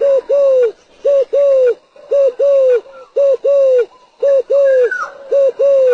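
Spotted dove cooing, a decoy bird's lure call. It sings six coo phrases in a row, about one a second; each is a short note followed by a longer one that drops in pitch at its end.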